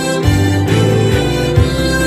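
Harmonica ensemble playing a children's song medley in C: sustained harmonica chords over low bass notes that change every second or so.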